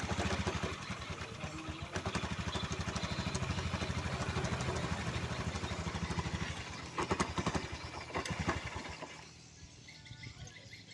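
Honda Vario scooter engine starting and idling with a rough sound from the CVT housing, the sign of a fault in the CVT; it runs with a fast, even pulse and cuts off about nine seconds in.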